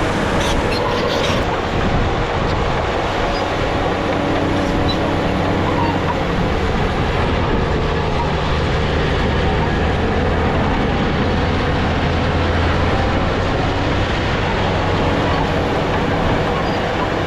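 Crawler bulldozer's diesel engine running steadily at work, the low engine note swelling somewhat in the middle of the stretch.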